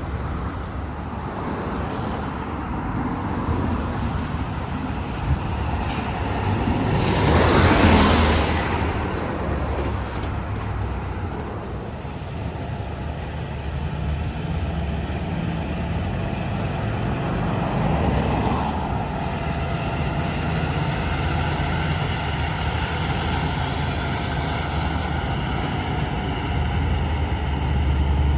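Highway traffic with a steady low rumble and vehicles passing; the loudest pass-by swells and fades about eight seconds in, and a smaller one about eighteen seconds in.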